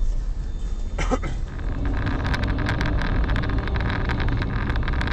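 A car in motion: steady engine and road rumble with many small clicks and rattles. About a second in there is an abrupt change in the sound.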